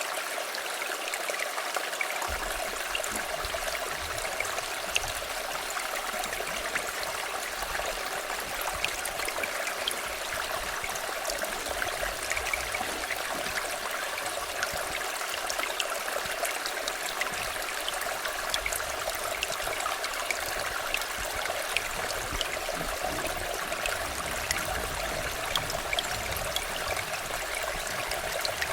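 River water flowing steadily, an even rushing with many small splashes and trickles, and a faint low rumble that comes in about two seconds in.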